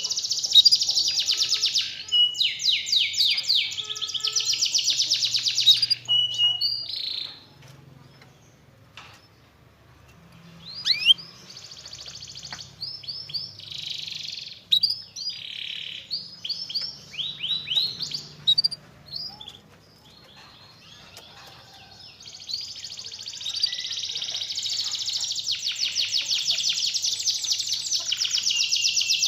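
Domestic canary singing long rolling trills of rapid repeated notes. The song is loud at first, breaks off about seven seconds in into scattered softer phrases, then builds back into a continuous trill about two-thirds of the way through.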